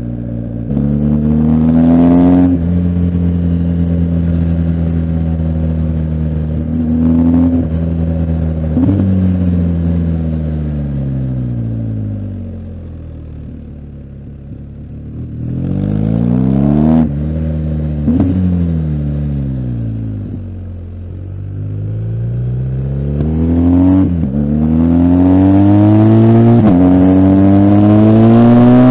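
BMW R1250GS Adventure's boxer twin engine being ridden hard through the gears. The pitch climbs and drops sharply at each upshift, sinks as the bike slows and shifts down around the middle, then pulls up through the gears again near the end.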